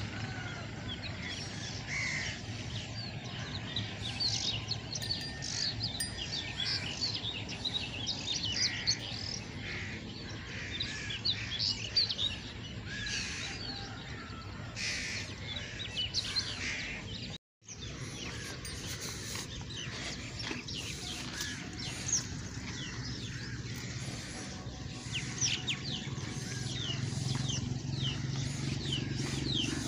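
Many birds chirping and tweeting throughout, short high calls over a steady low background noise. The sound cuts out for a moment about halfway.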